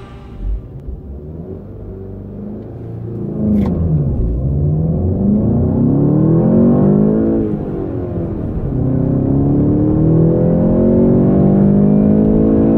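VW Golf GTI's 2.0-litre turbocharged four-cylinder engine accelerating hard through the gears. It starts as a low rumble, a sharp click comes about three seconds in, then it climbs in pitch, drops at an upshift, climbs again and drops at another shift near the end.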